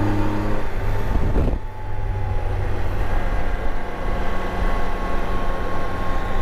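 Motorcycle engine running at road speed with wind noise on the microphone. The engine note changes and the loudness dips briefly about a second and a half in, then runs steady again at a lower pitch.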